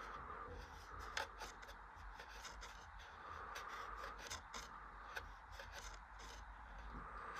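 Bridgestone Altus Newing washing machine in its wash phase, the laundry and water swishing faintly in slow swells, with light clicks scattered through.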